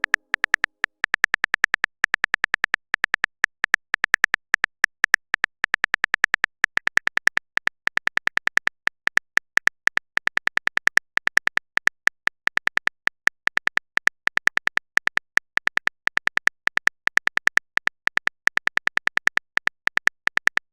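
Phone keyboard typing sound effect: rapid, short clicks in uneven bursts with brief pauses, like a message being typed out.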